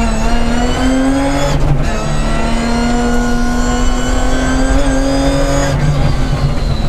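BMW 325 Group A rally car's straight-six engine at full load, heard from inside the cabin. The revs climb, dip briefly about one and a half seconds in, pull steadily again, and dip once more near the end.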